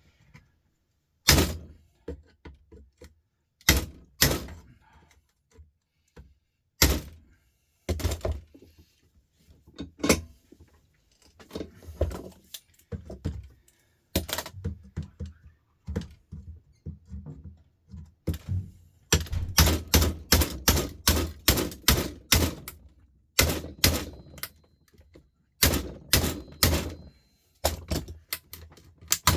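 Lump hammer striking a cement-block chisel set into an electric sander's casing: sharp single blows a few seconds apart, then a quick run of blows about three a second, as the chisel is driven in to break the housing open.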